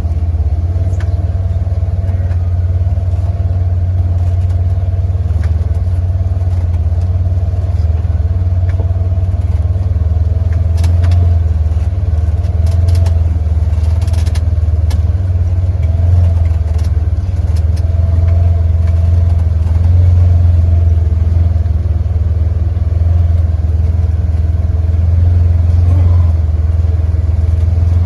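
Off-road vehicle's engine running steadily at low speed, a deep constant rumble, with occasional short knocks and clatters.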